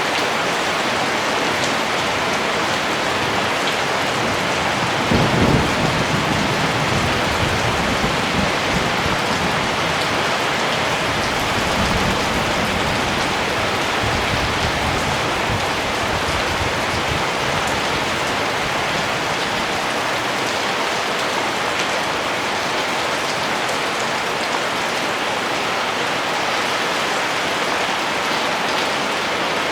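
Steady rain. A low rumble of thunder breaks in about five seconds in and rolls on for roughly ten seconds before fading.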